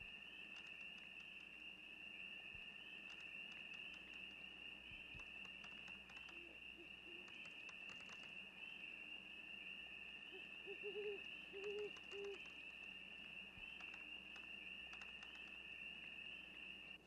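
Faint night-time insect chorus: a steady, unbroken high trill. Short low hooting calls come once about six seconds in and again as a group near the middle.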